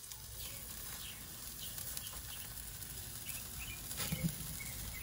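Faint outdoor ambience: small birds chirping in short, repeated calls over a low, steady rumble, with a few faint clicks.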